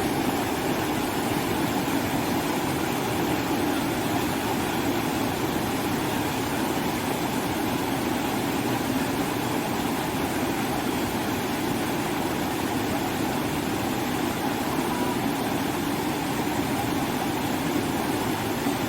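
Steady rushing of river water pouring over a small waterfall and rocks, an even unbroken noise.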